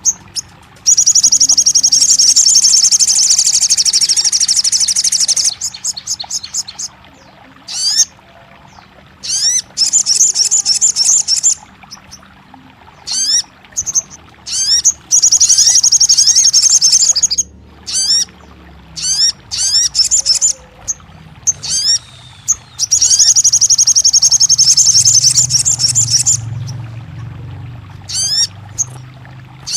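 Sogon bird singing: long, rapid, high-pitched trills of several seconds each, broken by short, quick rising notes, over a faint low hum.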